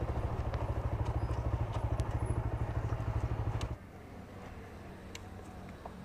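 TVS Raider 125's single-cylinder engine running at low revs with an even, rapid putter. It cuts out abruptly about two-thirds of the way through, leaving only faint background sound.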